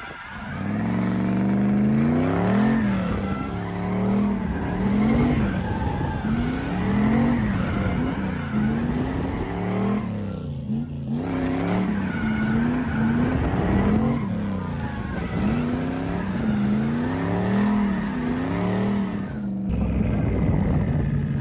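Drift car's engine revving up and down over and over, a rise about every two seconds, as the car slides with tyres squealing. The engine briefly drops away about halfway through.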